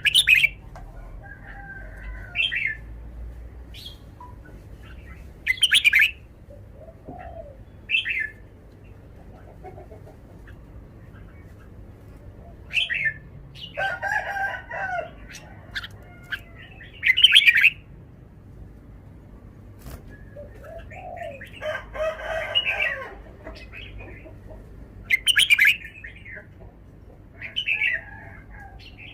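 Red-whiskered bulbul singing short, bright whistled phrases every couple of seconds. A rooster crows twice in the background, in longer and lower calls about halfway through and again later.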